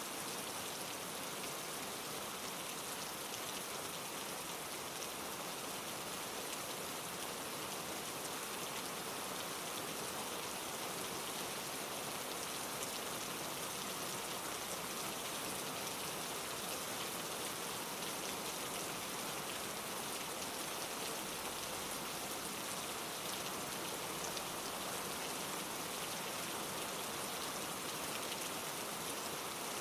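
Steady rain falling on leaves and foliage, a constant even patter of drops.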